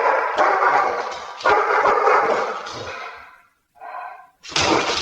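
Dog snarling and barking aggressively in three long, harsh bursts, then a brief higher-pitched cry about four seconds in and another loud snarl near the end.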